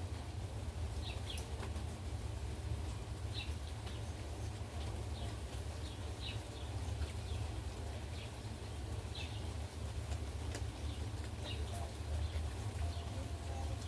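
Heavy rain falling steadily, with gusty wind rumbling low on the microphone. Brief high chirps come irregularly, about one a second.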